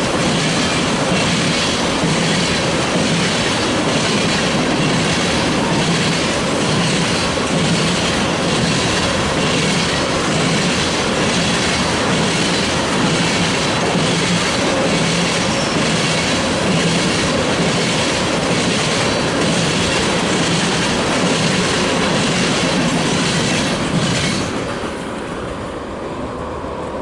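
Freight train's cars rolling past, steel wheels clicking over rail joints in a steady rhythm under a loud rolling rumble. The sound drops off somewhat near the end as the train moves away.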